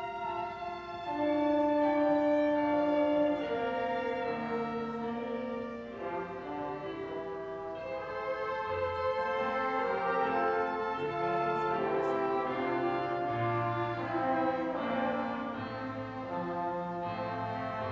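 A small orchestra of violins and brass instruments playing slow music in held, overlapping notes.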